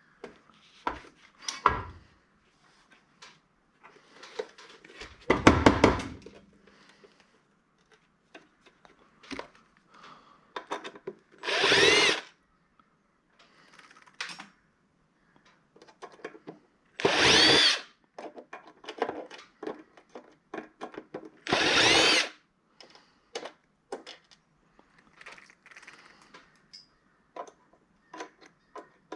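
A handheld power drill-driver run in three short bursts of about a second each, its motor speeding up at the start of each run, taking screws out of a metal docking station. Between the runs come clicks and knocks of parts being handled, with one loud clatter about five seconds in.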